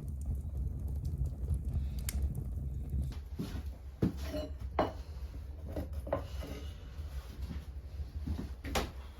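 A few sharp knocks and light clatters over a steady low rumble.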